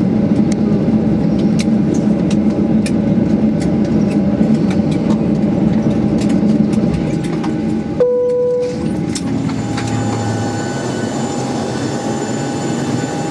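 Boeing 737-800 at the gate: steady cabin rumble with scattered clicks and knocks, then, about eight seconds in, an abrupt change to a steadier jet whine with a thin high tone.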